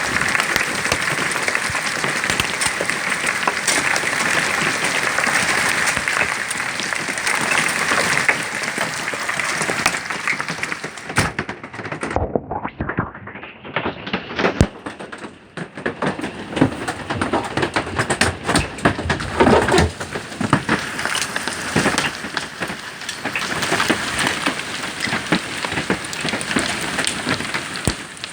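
Heavy hail and rain pelting down in a dense, steady clatter of countless hits. About twelve seconds in the sound goes briefly muffled, then comes back with sharper, separate knocks of larger stones.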